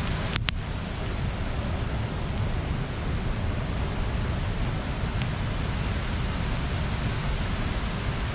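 Bonfire burning: a steady rush of flame and embers, with two sharp pops of burning wood about half a second in and a faint crackle around five seconds.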